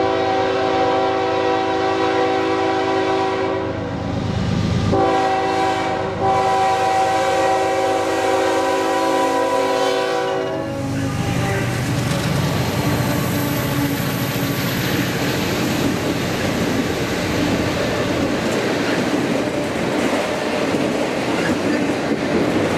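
Diesel freight locomotive horn sounding two long blasts for the grade crossing, followed by the locomotive passing close by and its autorack cars rolling past with a steady rumble and clickety-clack of wheels over the rail joints.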